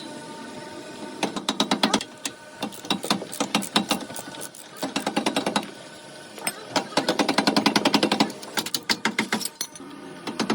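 Rapid mechanical hammering in bursts about a second long, about ten strikes a second, with short pauses between the bursts.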